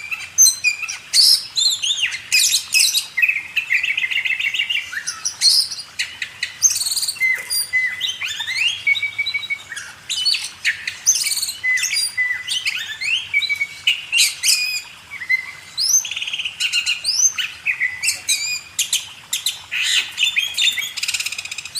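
Oriental magpie-robin (kacer) singing continuously: a fast, varied run of whistles, rising and falling chirps and short buzzy trills with hardly a pause.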